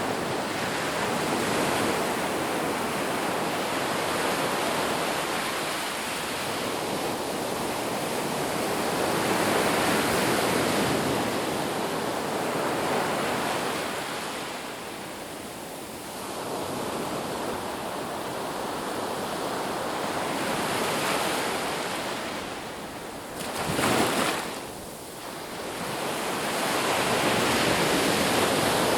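Ocean surf breaking on a beach: a continuous rush of wave noise that swells and eases every few seconds, with a brief, louder surge about three quarters of the way through.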